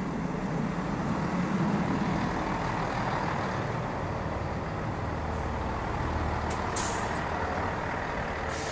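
Transport for Wales Class 158 diesel multiple unit running past: a steady rumble of its diesel engines and wheels on the rails. It is loudest in the first couple of seconds, with a few short high hissing sounds near the end.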